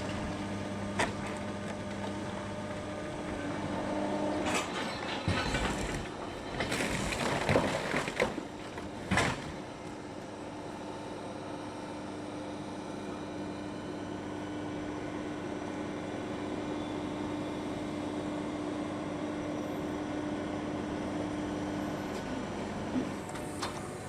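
Car-body crushing machinery running with a steady hum. About five seconds in comes a few seconds of loud, irregular clattering and crunching, then the steady hum carries on.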